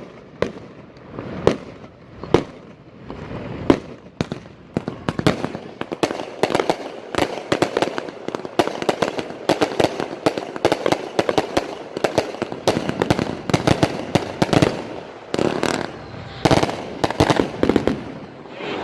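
Consumer fireworks cake firing a string of sharp shots and bursts. The reports are a second or so apart at first, then come several a second through the middle, with short pauses between clusters near the end.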